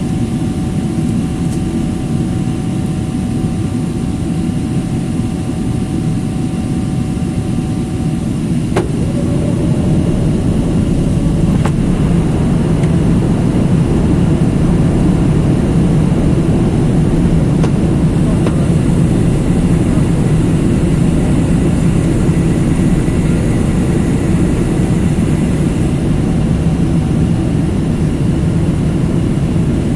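Jet airliner engines and airflow heard from inside the passenger cabin: a steady, loud rumble that grows louder about ten seconds in.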